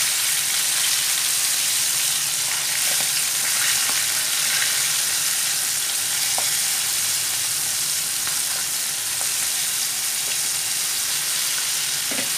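Hot oil sizzling steadily around stuffed green chillies deep-frying in a pan, with a few small pops.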